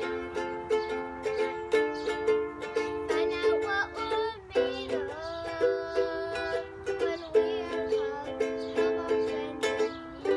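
Chords strummed on a small string instrument in a steady rhythm, with a short break about four and a half seconds in.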